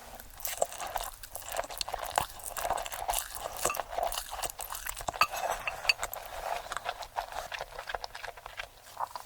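A person biting and chewing crunchy food close to the microphone: a dense, irregular run of crisp crunches and crackles.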